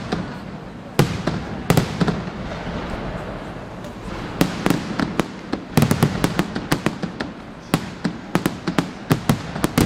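Fireworks display: shells bursting with sharp bangs in quick, irregular succession, a few at first and then a dense, rapid run of bangs through the second half.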